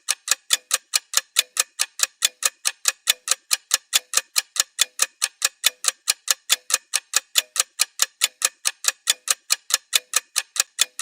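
Clock-style ticking, sharp and evenly spaced at about three ticks a second: a timer sound effect counting down the rest period between sets.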